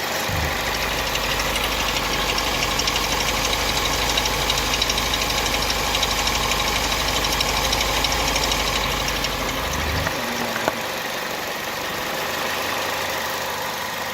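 Citroen/Peugeot 1.6 VTi four-cylinder petrol engine running, with a deep low drone that drops away about ten seconds in and a sharp click shortly after. The engine is being checked for a cylinder 1 misfire logged together with an ignition coil circuit fault.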